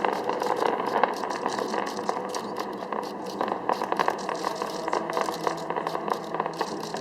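Fireworks crackling: a dense, irregular run of sharp pops and crackles over a steady background din.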